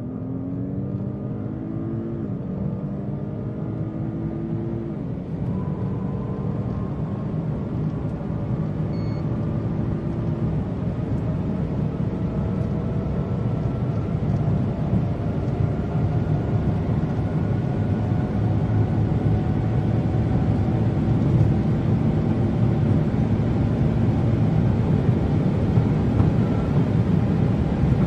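2016 Audi S8's twin-turbo V8 accelerating hard at full throttle: the engine note rises and drops back through three quick upshifts in the first ten seconds or so, then climbs slowly in a high gear as the overall sound grows louder.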